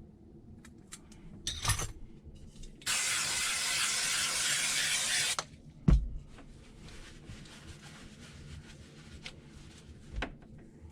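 A steady spraying hiss lasting about two and a half seconds, then a sharp knock, with a few lighter clicks and knocks of handling around it.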